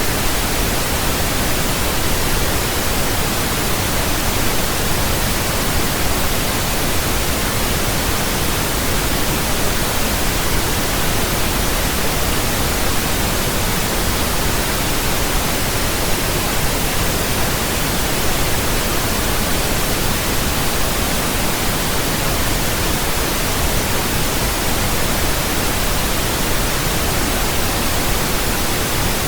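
Steady pink noise: an even, unchanging hiss spread across all pitches, with a soft low rumble beneath.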